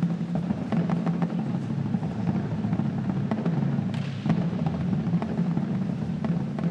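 Marching drum line playing a battle set: drums struck in fast, dense patterns, with the low drums carrying most of the weight.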